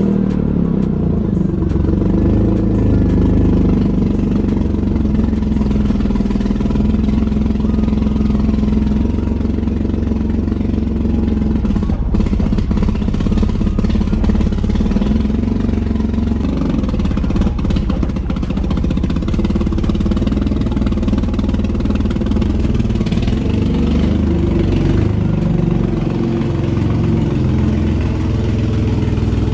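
BMW E36 M3's straight-six engine idling after a cold start, steady but slightly wavering: the shaky idle that wants to stall, which the owner blames on a cracked intake boot found in a smoke test.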